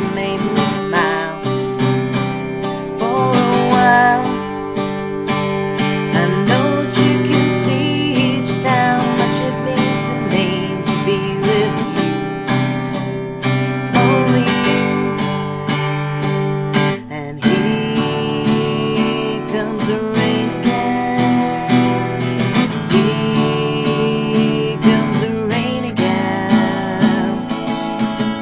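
Acoustic guitar strumming chords of a song, with steady regular strokes.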